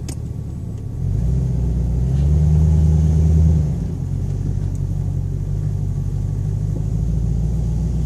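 Ford Thunderbird's engine running as the car is driven. The engine note gets louder about a second in and climbs in pitch for the next couple of seconds, then falls back suddenly just before four seconds in and runs on steadily.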